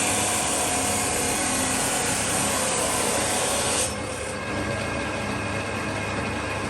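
A power tool working steel gives a steady, harsh rasp that stops abruptly about four seconds in. A lower steady machine hum continues after it.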